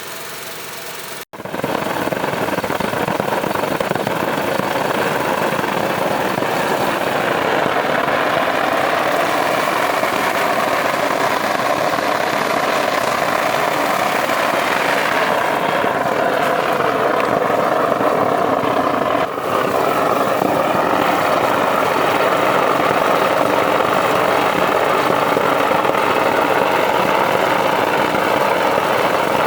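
A machine running steadily with a dense, even noise, starting abruptly about a second in after a brief break in the sound.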